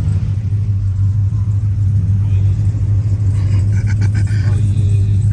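Car exhaust booming with a steady deep drone, holding the same low pitch throughout.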